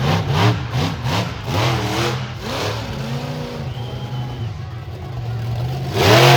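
Monster truck engine revving in repeated blips, its pitch rising and falling several times, then opening up much louder near the end.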